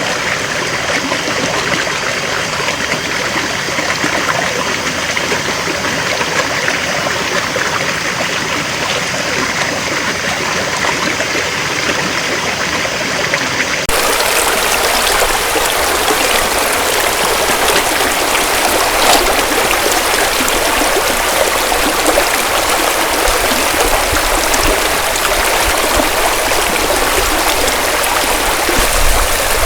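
Small rocky stream of clear water running over stones. About halfway through the sound changes abruptly to a brighter, hissier rush of water from another stretch of stream.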